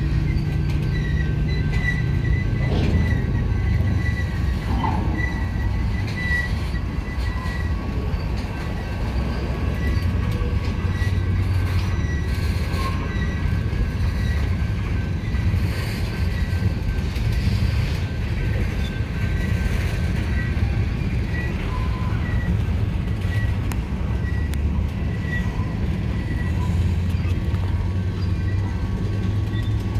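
Freight train cars rolling past on the rails with a steady low rumble, over a thin, high squeak that repeats regularly throughout.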